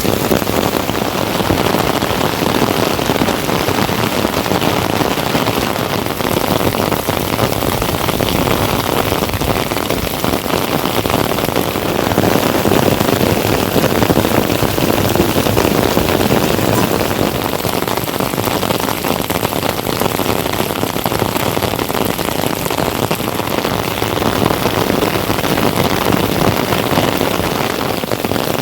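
Heavy monsoon rain falling steadily on surfaces, a dense and even sound with no break.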